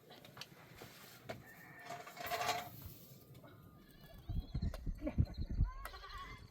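A single bleat from livestock a little after two seconds in. From about four seconds on there is a run of low thuds.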